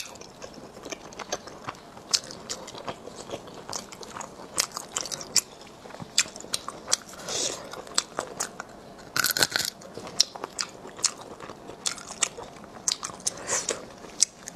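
Close-miked eating of sea snails: wet chewing and smacking, with many short sharp clicks. A short, louder burst of noise comes about nine seconds in.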